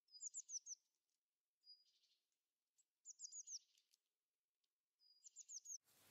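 A small songbird singing quietly, repeating the same short phrase three times: a thin held whistle followed by a quick run of three or four high falling notes, with softer chirps in between.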